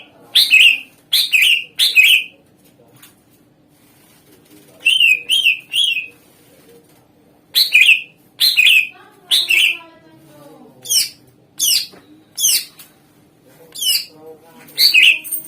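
Cucak ijo (greater green leafbird) singing loud, sharp, downslurred notes. They come in groups of three or four, then after a pause of a few seconds in a longer run of about one note a second.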